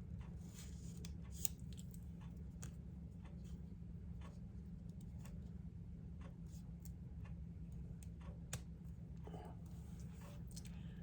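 Scattered small clicks, taps and rustles of paper embellishments and stickers being peeled up and handled on a craft desk, two of the taps sharper than the rest, over a steady low hum.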